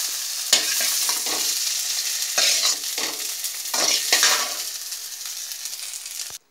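Fried okra pieces sizzling in hot oil in a metal kadai while a steel slotted spatula scrapes them out of the pan in about six strokes. The sizzle grows fainter and stops abruptly just before the end.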